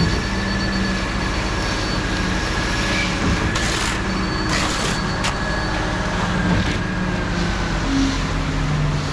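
Concrete truck engine running steadily, with a few short hissing bursts about four to five seconds in.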